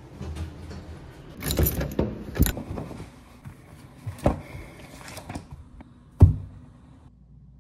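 A few knocks and clattering handling sounds, with one sharp thump about six seconds in.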